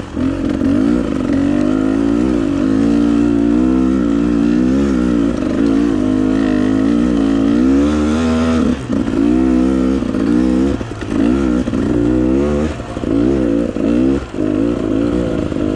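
Dirt bike engine running under constant throttle changes, its pitch rising and falling as the rider works the throttle, with several short drops in revs in the second half.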